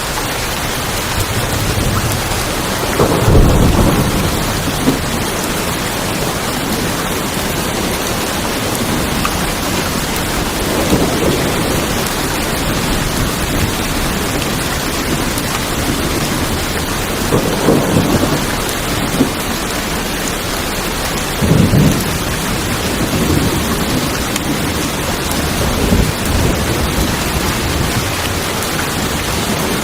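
Heavy rain drumming steadily on a tin roof, with several rolls of thunder rumbling through it.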